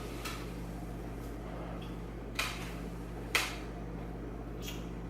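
Two sharp clicks about a second apart, with a few fainter ones, over a steady low electrical hum.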